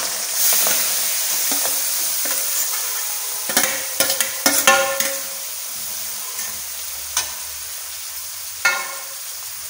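Grated beetroot dropped into hot oil in an aluminium kadai with green chillies and curry leaves, sizzling loudly at first and dying down as the beetroot covers the oil. A quick run of sharp metal clinks against the pan comes about three and a half to five seconds in, and single clinks follow later.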